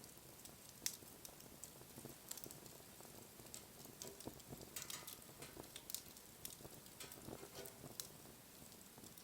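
Wood fire crackling softly, with irregular small snaps and pops and a sharper pop about a second in.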